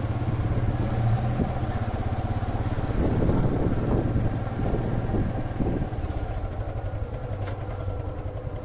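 Motorcycle engine running steadily, a low throbbing drone that gets rougher and a little louder for about a second partway through.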